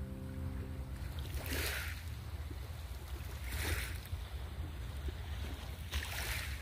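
Small lake waves washing on the shore, three short hissing swells about two seconds apart, over a steady low rumble of wind on the microphone.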